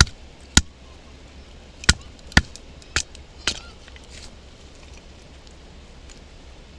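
Batoning firewood: a wooden baton knocking six times on the spine of a Mora knife, driving it down through a stick to split it into thin kindling. The knocks come in quick pairs and stop about four seconds in.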